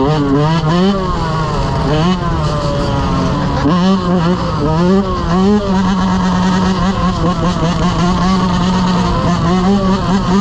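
Dirt bike engine running while riding, revving up and down again and again, its pitch climbing and dropping every second or so as the throttle is worked.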